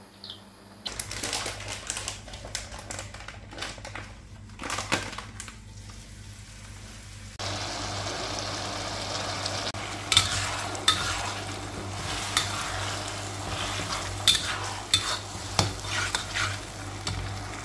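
Ground-chili sambal frying in a wok, a steady sizzle that starts and grows louder about seven seconds in, with a metal spoon clinking and scraping against the wok as it is stirred. Before that, scattered clinks of kitchen utensils.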